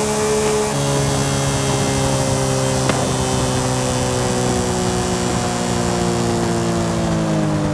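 Porsche Speedster's flat-six engine running on the road, its revs slowly falling, dropping a little faster near the end. A single short knock comes about three seconds in.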